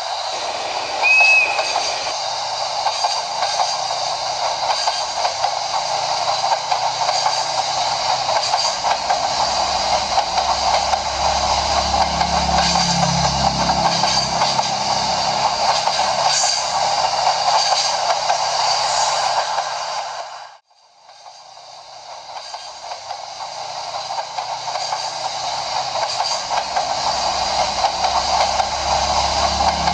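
N-gauge model train running on layout track: a steady rushing noise of wheels and motor with fine clicks. There is a short high chirp about a second in. The sound cuts off abruptly about two-thirds through and fades back in.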